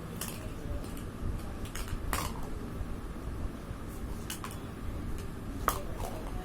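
Plastic nesting egg toys clicking and knocking together as they are handled, in a handful of sharp, irregular clicks over a steady low room hum.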